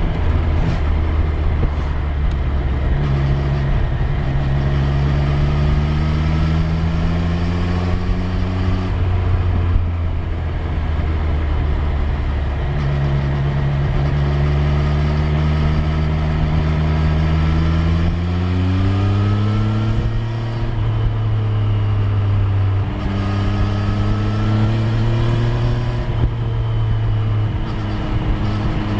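Triumph Street Triple 765 R's inline three-cylinder engine pulling under way, its revs climbing slowly three times and dropping back in between, with a steady rush of road noise underneath.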